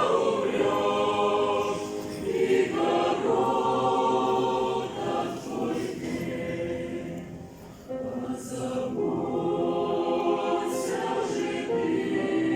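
A choir singing a slow Christian song in long held notes, the phrases swelling and fading, with a brief quiet dip about eight seconds in.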